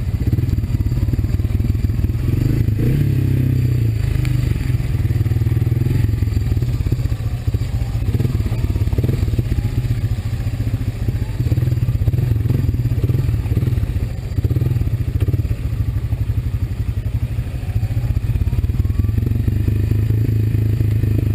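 Single-cylinder Honda ATV engine running steadily under way, a low rumble with small rises and dips in throttle.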